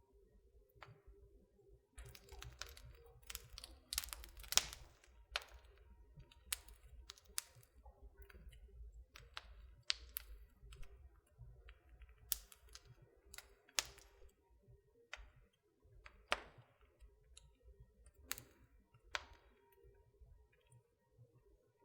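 Fireplace fire crackling: irregular sharp pops and snaps, some much louder than others, over a faint low rush of the burning.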